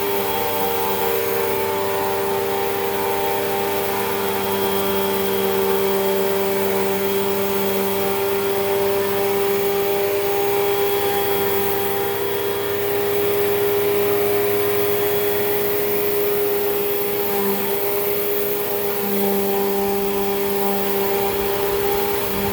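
Hoover WindTunnel 2 Rewind upright vacuum cleaner running steadily, its motor giving a constant whine.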